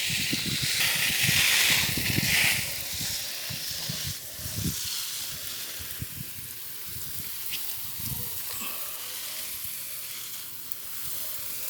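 Water spraying onto garden plants: a steady hiss, loudest in the first two and a half seconds, then settling to a fainter spray, with occasional low bumps.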